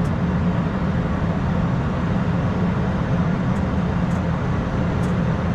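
Steady flight-deck noise of an Airbus A220-300 on short final approach: a constant rush of air and engine hum, with a few faint ticks a few seconds in.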